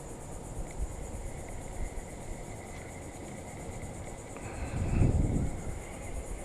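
Insects droning steadily at a high pitch over a low rumbling background, with a louder low rumble about five seconds in.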